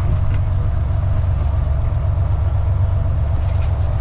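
Diesel engine and road noise heard inside the cab of a Freightliner FLD truck underway: a steady low drone with a faint steady hum above it.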